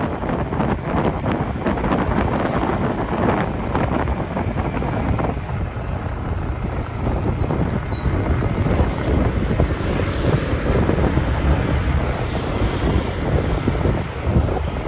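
Wind buffeting the microphone of a moving motorbike, over steady road and traffic noise.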